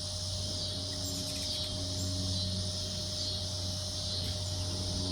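Steady high-pitched chorus of insects, unchanging throughout, over a low steady hum.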